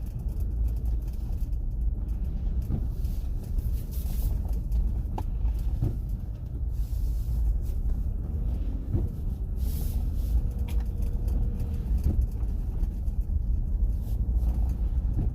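A car driving, with a steady low rumble of road and engine noise and a few brief hissy swells.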